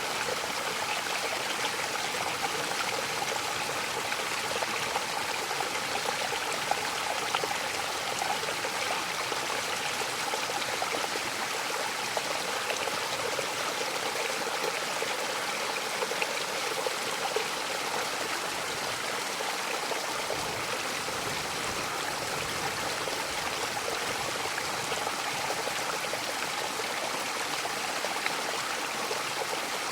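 Waterfall: steady rushing and splashing of falling water, an even hiss with no change.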